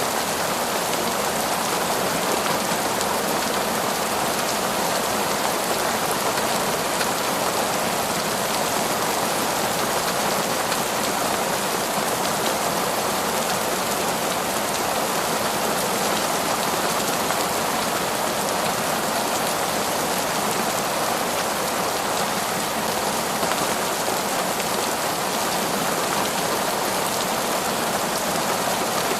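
Heavy, torrential rain falling steadily, a dense even hiss of downpour with no letup.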